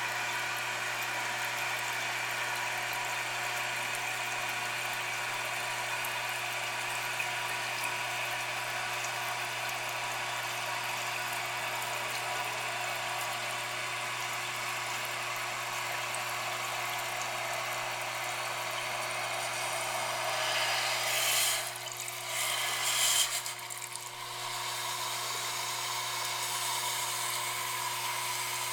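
Toilet tank's anti-siphon fill valve refilling the tank: a steady hiss of running water with a thin drill-like whine. Around twenty seconds in there are a few seconds of louder rustling and knocking.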